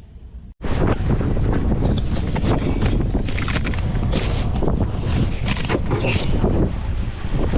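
Quiet vehicle rumble that cuts off about half a second in, followed by loud, gusty wind buffeting the microphone outdoors, a steady roar with irregular gusts.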